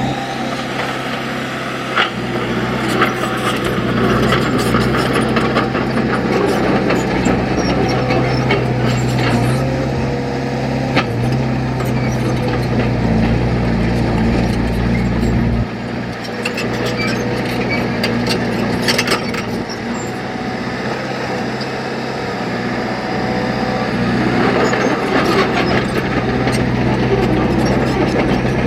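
Diesel engine of heavy earthmoving machinery running under changing load, its pitch shifting up and down several times, with occasional sharp clanks and knocks.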